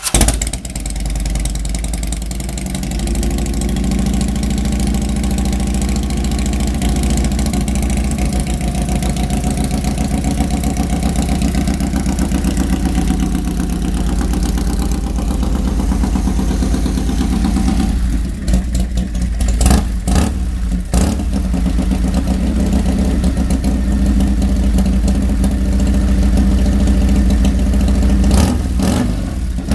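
1999 Confederate Hellcat's V-twin engine idling steadily just after a completely cold start. A few sharp pops cut through about two-thirds of the way in and again near the end.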